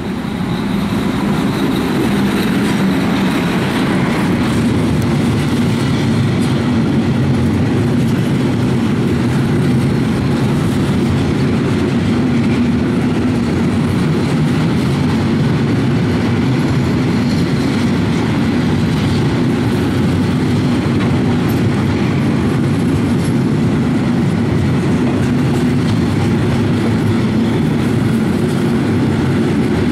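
A freight train passing close by: an ET22 electric locomotive goes past, then a long string of loaded cement hopper wagons rolls by with a steady heavy rumble and wheels clattering on the rails. The sound grows louder over the first second or two, then stays level.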